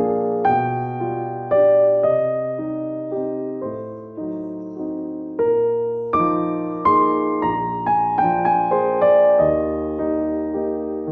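Background piano music: slow, gentle chords and single notes, each struck and left to fade.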